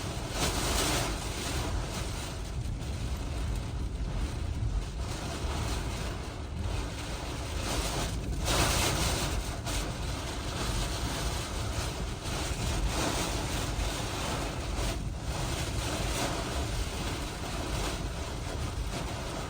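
Hurricane-force wind gusting hard with driving rain, buffeting the microphone with a deep rumble. The wind surges loudest about nine seconds in.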